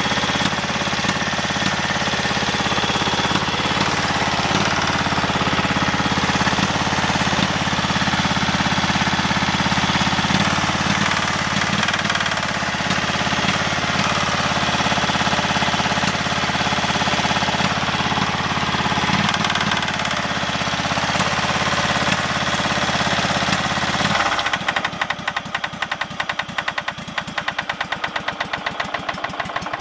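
Craftsman GT5000 garden tractor engine running with a steady knock, the rod knock of a worn connecting rod bearing. About 24 seconds in the engine note drops away and a quieter, rapid ticking carries on.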